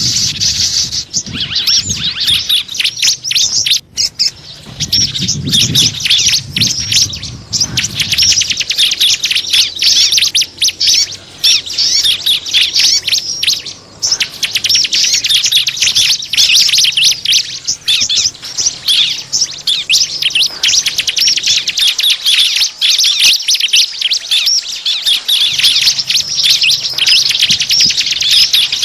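Small birds chirping and twittering in a rapid, unbroken stream of high-pitched notes: a bird-lure (pikat) recording for calling in small birds. A low rumble sits under the chirps for the first several seconds.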